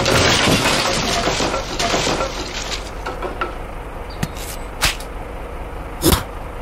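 Clattering, rattling noise that dies away over about three seconds, followed by three separate sharp knocks.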